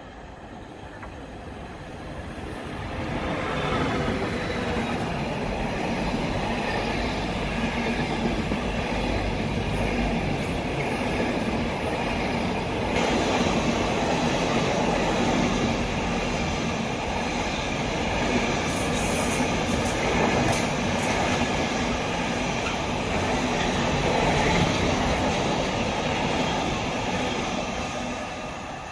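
A train passing along the tracks: its rolling noise builds over the first few seconds, holds steady for about twenty-five seconds, then fades near the end.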